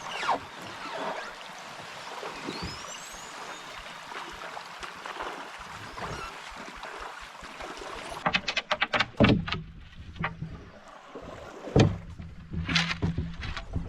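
River water flowing steadily. From about eight seconds in come canoe paddle strokes, a quick run of knocks and splashes with several louder strikes.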